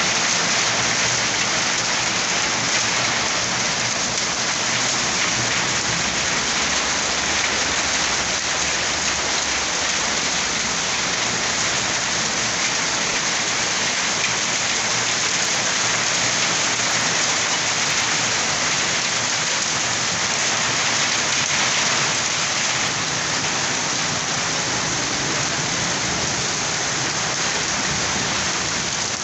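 Heavy rain mixed with hail falling on concrete, a steady dense hiss of countless drops with no let-up.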